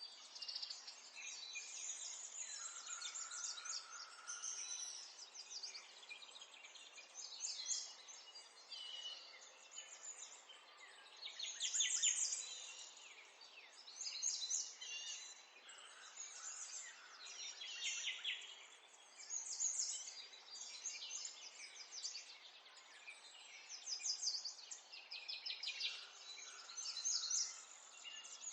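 Several small songbirds singing at once: overlapping high chirps and rapid trills, with a fresh burst of song every couple of seconds over a faint steady background hiss.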